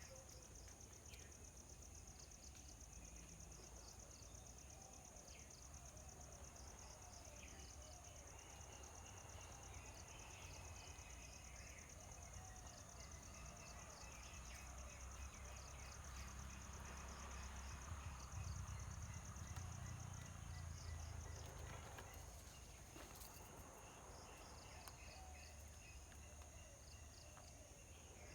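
Faint outdoor ambience: a steady, fast-pulsing insect trill with scattered faint bird chirps over a low rumble that swells a little around the middle.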